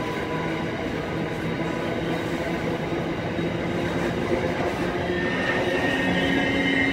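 Empty coal hopper wagons rolling past on the rails in a steady run of wheel-and-track noise, with a high wheel squeal coming in about five seconds in.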